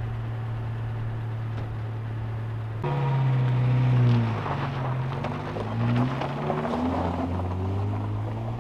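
Car engine running with a steady hum. About three seconds in it turns louder, its pitch rising and falling again and again as the car drives.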